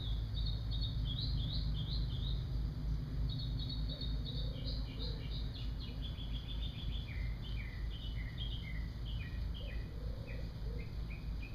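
Small birds chirping: many short, quick high chirps in overlapping series throughout, over a steady low rumble.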